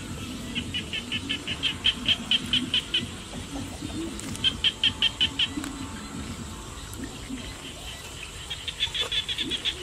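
A bird calling in quick runs of short, high, evenly spaced notes, about six a second. There are three runs: one starting about half a second in and lasting some two and a half seconds, a shorter one near the middle, and another near the end.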